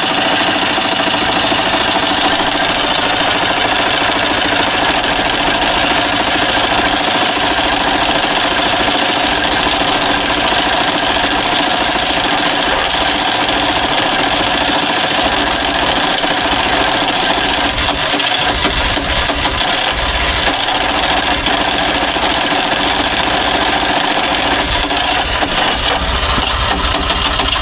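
Trabant 601's two-stroke two-cylinder engine turning over with a loud, steady mechanical noise that dies away at the end. The engine is being spun backwards by a Wartburg starter fitted by mistake, which turns the opposite way to a Trabant starter.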